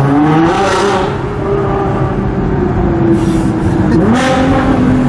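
Nissan GT-R R35's twin-turbo V6 through an Armytrix titanium valvetronic exhaust with the valves open, accelerating hard. The engine pitch drops at a quick upshift about half a second in and again near the end, then climbs again, with short rushes of hiss around the shifts.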